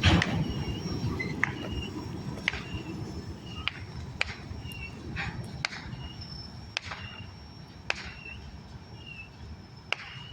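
Freight cars of a long train rolling past, their wheels clicking sharply over rail joints about once a second over a low rumble.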